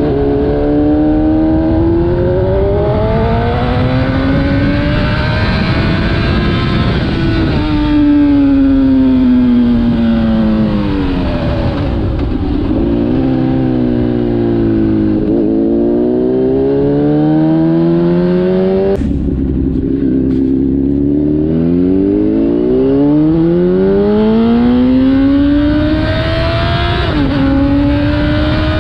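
Motorcycle engine under way, its pitch climbing as it accelerates and falling as it slows, with sudden drops at gear changes. There is an abrupt break with a couple of clicks about two-thirds of the way through.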